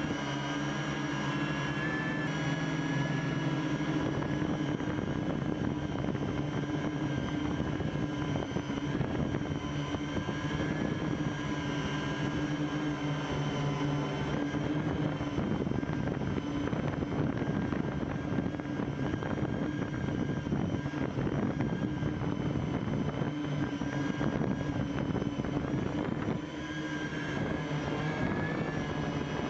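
Homemade quadcopter's electric motors and propellers buzzing steadily, picked up by the camera strapped under the craft, as several held tones that shift slightly with throttle, with a brief drop near the end.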